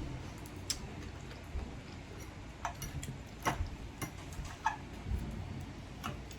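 Eating sounds at a table: a handful of short, scattered clicks over faint room noise.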